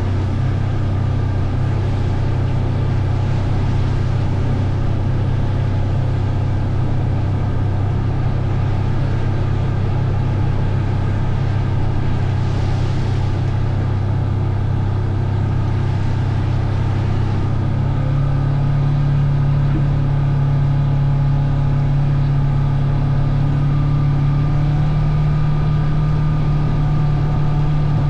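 Engine of the vehicle being ridden, running steadily on a trail ride, heard from on board. Its pitch steps up a little about two-thirds of the way through.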